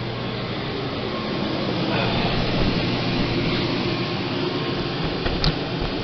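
Dometic RV air conditioner running steadily in cool mode, a unit reported to be putting out no cold air. A brief click near the end.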